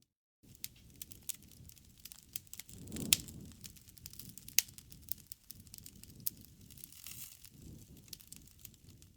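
Campfire burning: irregular crackles and snaps of burning wood over a low rumble of flames, with a sharp pop about three seconds in and another about a second and a half later.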